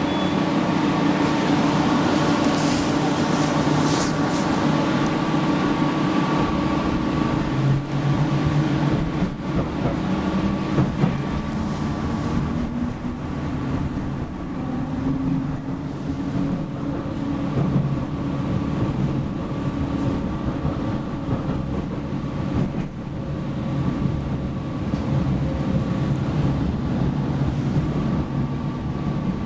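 PESA Fokstrot tram heard from inside the passenger saloon while running between stops: a steady rumble of wheels on rails with humming tones that shift in pitch partway through.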